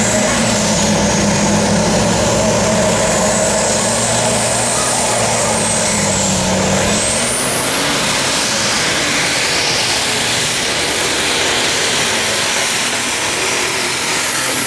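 Unlimited super stock pulling tractor's turbocharged diesel engine running at full power on a pull, with a loud high turbo whine that climbs in pitch about seven seconds in and then holds.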